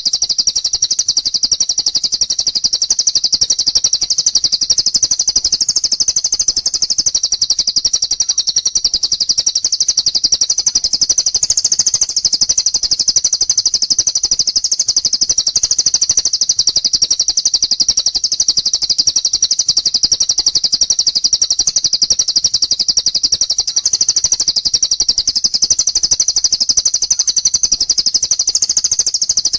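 A songbird's very rapid, high-pitched trilling, unbroken throughout and cutting off sharply at the end: tutor song of the kind played to murai batu to teach them new calls.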